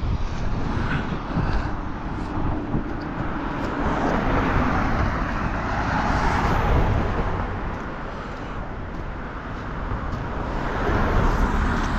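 Strong gusty wind buffeting the microphone: a loud, continuous rumbling rush that swells and eases, dropping back a little after the middle and picking up again near the end.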